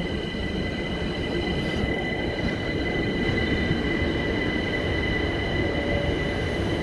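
A train running on the track: a steady rumble with a constant high-pitched whine over it.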